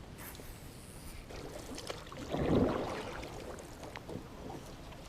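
Kayak paddle stroke swishing through the water once, about halfway through, against a faint wash of water, with a few light clicks.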